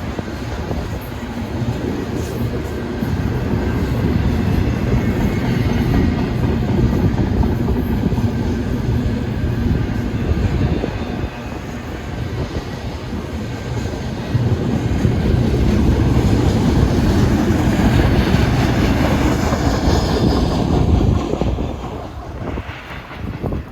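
Freight train rolling past, its cars rumbling over the rails; the sound swells, dips about halfway through, builds again and falls away near the end.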